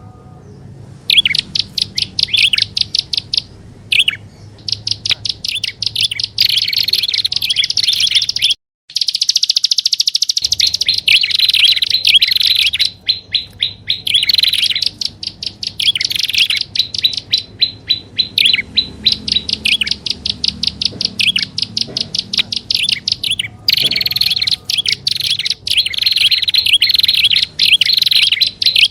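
Prenjak (prinia) calls played as a bird lure: rapid-fire chattering trills of sharp, high notes, repeated in bursts of one to a few seconds with only short pauses, and a brief cut about nine seconds in.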